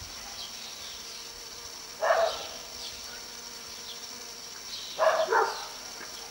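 Steady high insect chirring, with a loud short animal call about two seconds in and two more calls in quick succession about five seconds in.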